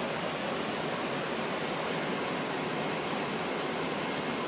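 Steady, even hiss of background noise on the flight deck of a Boeing 777-200ER descending on approach.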